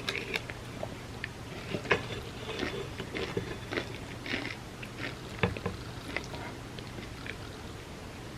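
Close-miked chewing of soft, moist chocolate cake soaked in almond milk: short wet mouth clicks and smacks, thinning out near the end.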